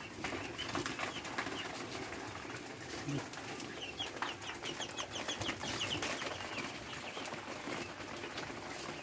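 Quails chirping, with a quick run of short high peeps about four to six seconds in, over a steady rustle and scratching of the birds moving about.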